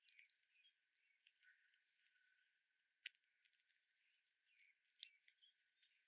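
Faint, scattered chirps and short high calls of small birds, with a quick run of three high notes about three seconds in and a few sharp clicks mixed in.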